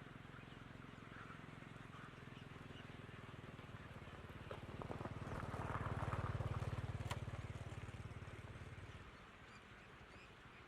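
A low engine hum, as of a vehicle going past, swelling to a peak about six seconds in and fading out near nine seconds, with a few sharp clicks over a faint outdoor background.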